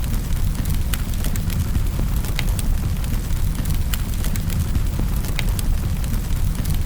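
Wood fire burning in a fireplace: a steady low rumble of the flames with sharp, irregular crackles and pops, several a second.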